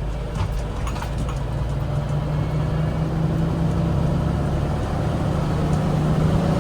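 Diesel engine of a 1974 Kenworth logging truck pulling up a hill, heard from inside the cab: a steady drone whose pitch climbs slowly as the revs build, with a few light rattles about a second in.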